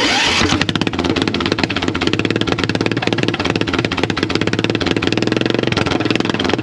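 A small engine idling through an open exhaust, a fast, even stream of pops.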